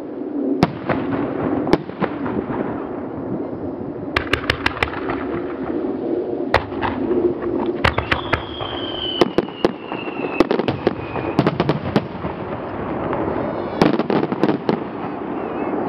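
Aerial fireworks shells bursting: repeated sharp bangs, several in quick crackling clusters, with a descending whistle about eight seconds in.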